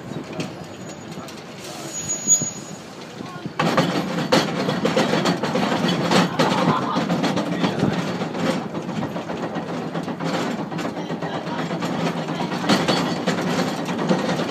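Rack-railway train running along a rack section, heard from the driver's cab: a steady rumble of wheels and rack with many clicks and knocks. The noise jumps up suddenly about three and a half seconds in and then stays loud.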